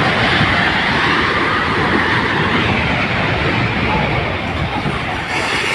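A loud, steady rushing noise that starts abruptly and holds even throughout, with a faint call or two in it.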